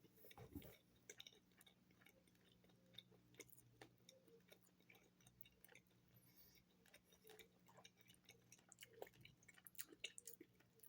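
Faint chewing of a chicken wing with the mouth: scattered soft wet clicks and smacks, over a faint steady hum.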